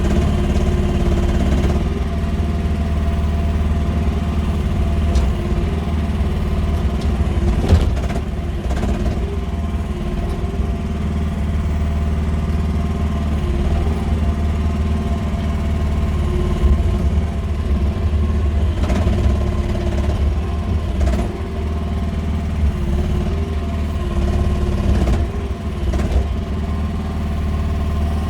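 QH13R mini excavator engine running steadily under working load, its note dipping a few times. A few sharp clanks are heard, the loudest about eight seconds in.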